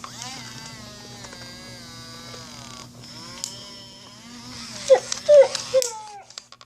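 FurReal Friends Biscuit robotic toy dog playing its recorded dog sounds through its speaker: a long wavering whimper, then three or four short loud yips about five seconds in, cutting off suddenly.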